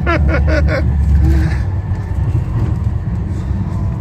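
Steady low rumble of a Virgin Pendolino electric train running at speed, heard inside the carriage, with a few brief voices in the first second or so.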